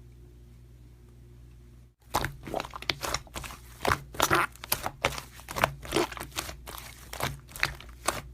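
Slime being squeezed and pressed by hand, making a quick run of crackling, crunching pops that starts about two seconds in; before that only a faint steady hum.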